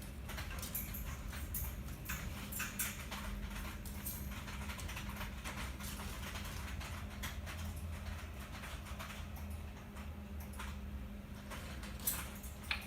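Irregular light taps and clicks on a hard surface over a steady low hum.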